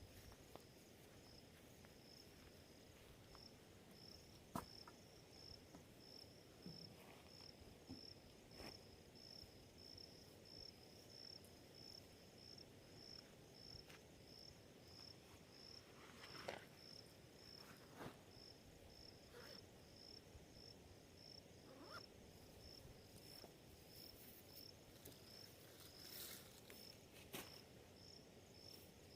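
Crickets chirping steadily at night, a high pulsing chirp about twice a second, with a few faint clicks and rustles now and then.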